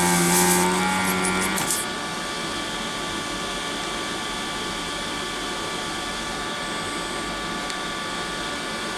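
Pro'sKit SS-331 desoldering station's vacuum pump running with a steady hum and a hiss of suction as the heated gun draws molten solder off a circuit board, cutting off suddenly after about a second and a half. A quieter steady fan hum from a fume extractor runs on underneath.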